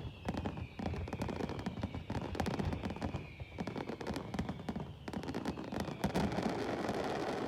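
Fireworks exploding in a rapid, dense barrage of bangs and crackles. A whistle glides slowly down in pitch over the first couple of seconds.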